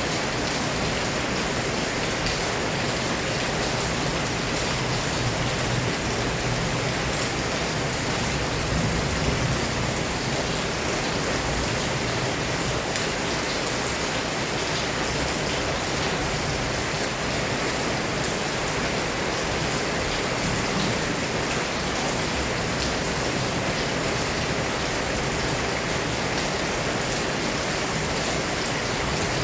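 Heavy rain falling steadily, a dense even hiss of drops on surfaces with a faint low rumble underneath.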